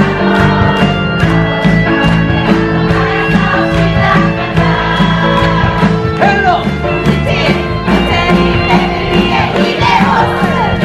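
Live band music with a steady beat: an instrumental passage of a musical-theatre song.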